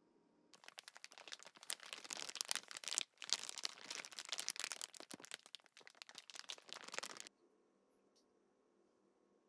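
Dense, rapid scratching and crackling. It starts about half a second in, breaks off briefly near three seconds, and stops abruptly after about seven seconds.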